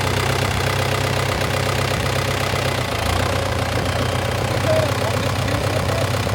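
Farm tractor engine running steadily, its note shifting slightly about three seconds in.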